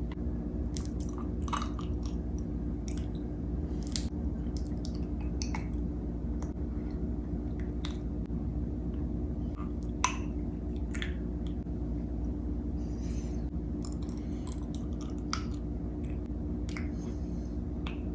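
A person biting into and chewing raw honeycomb: irregular wet crackles, clicks and smacks of wax comb and honey in the mouth, over a steady low hum.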